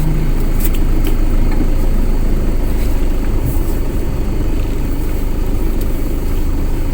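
A vehicle engine running steadily, with a few faint clicks.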